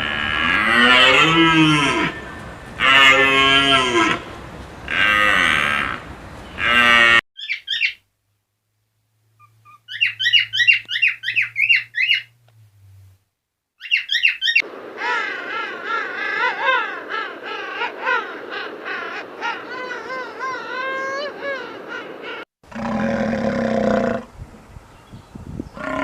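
A run of different animal calls one after another: four long calls with rising and falling pitch over the first seven seconds, then quick high chirps, then a long stretch of many overlapping chirps and warbles, and one more call near the end.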